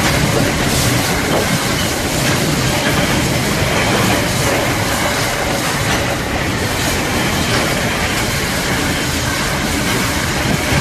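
Container freight wagons rolling past on steel wheels. A loud, steady rumble and rattle of wheels on the rails, with repeated clacks as the wheels cross rail joints.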